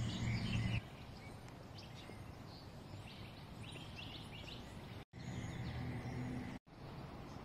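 Outdoor street ambience with small birds chirping on and off over a general background hiss. A low steady hum sits under it at the start and again for a stretch after about five seconds; the sound cuts out for an instant twice, the background changing each time.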